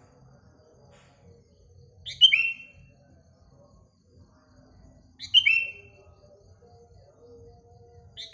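A songbird giving a short, loud call that falls in pitch, three times about three seconds apart, over faint chirping from other birds.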